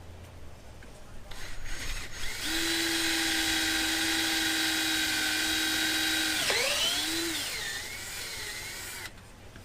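Electric drill spinning up and running at a steady high pitch. About two-thirds of the way in, its pitch drops sharply and then wavers as the bit bites into the material being drilled. It stops shortly before the end.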